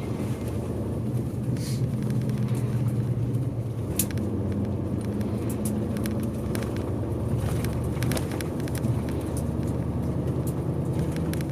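A tour bus on the move, heard from inside the cabin: a steady low engine drone with road noise and frequent light rattles.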